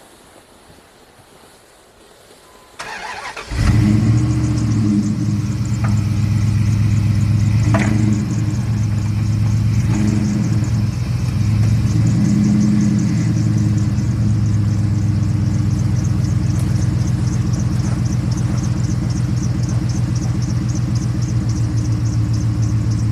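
Pickup truck engine cranked by the starter about three seconds in, catching within a second and then running steadily.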